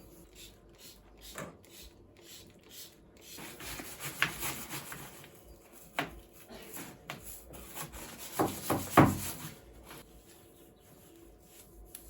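Cleaning sounds: a couple of seconds of rubbing, scrubbing strokes, then a few sharp clicks and, the loudest part, several thumps and knocks just before the end.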